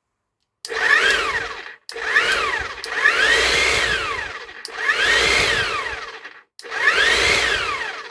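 Hilti TE 905 electric breaker running in five short bursts of one to two seconds each. Each time the motor speeds up and then winds down again, so its whine rises and falls.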